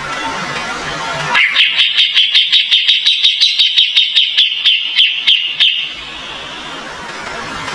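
Kapas tembak bird singing a rapid series of sharp, high repeated notes, about five a second for roughly four seconds, after a faint high note at the start.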